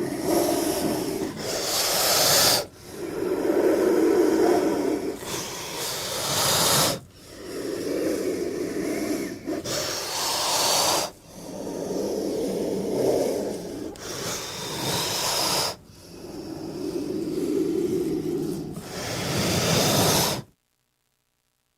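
King cobra hissing in repeated breaths, about every four seconds: each starts as a low, rasping growl and ends in a sharper, high hiss. The sound cuts off suddenly near the end.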